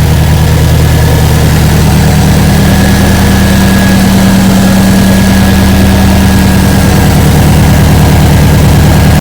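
2005 Subaru Impreza WRX STI's turbocharged flat-four engine idling steadily.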